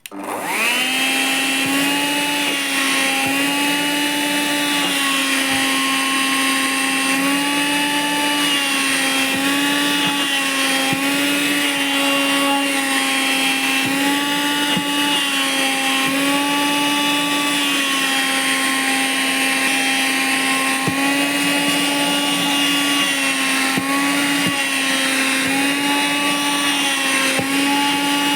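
Vacuum cleaner switched on and spinning up quickly, then running steadily as it sucks at nylon windbreaker trousers. Its motor pitch dips and recovers every second or two as the suction load changes.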